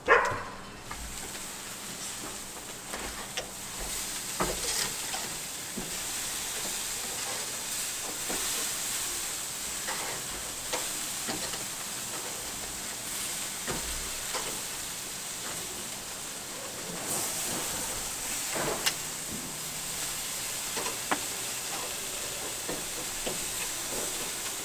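Pork chops sizzling over a charcoal grill: a steady hiss with scattered crackles and pops as the meat sears, after a single sharp knock at the very start.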